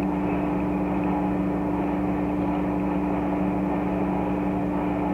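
Steady machine hum at an even level, with two low steady tones and a faint hiss above them, unchanging throughout.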